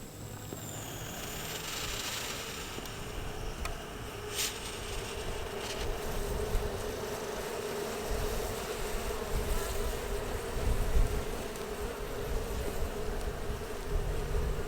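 Honey bees buzzing in a steady hum around the hive. There is a single sharp click about four seconds in.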